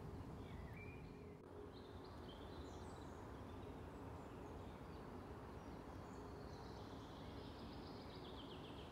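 Faint songbirds: scattered short chirps and whistles, with a fast run of notes about seven seconds in, over a steady low background hiss.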